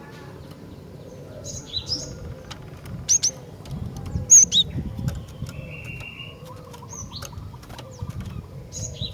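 Female cinereous tit (glatik batu) calling: short, sharp, high chirps in scattered pairs, with one drawn-out buzzy note near the middle and a low stuttering rattle later on, over low rustling noise.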